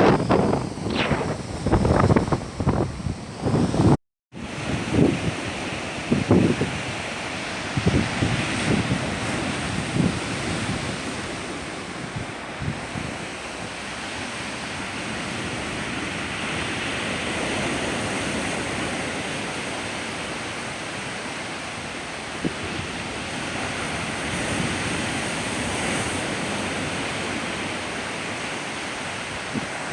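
Stormy sea surf breaking and washing in a steady roar, with wind buffeting the microphone in gusts over the first several seconds. A brief cut to silence about four seconds in.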